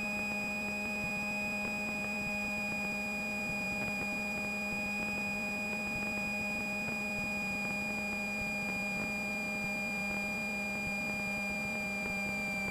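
Steady high-pitched whine with fainter higher overtones over a low hum of the Cessna 172's engine, heard in the cockpit.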